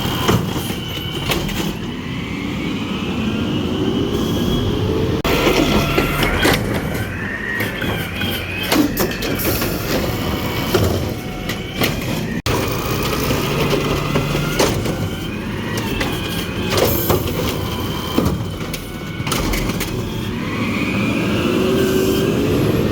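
Garbage truck's diesel engine running and revving, its pitch rising and falling in long sweeps, with scattered metallic clanks and knocks.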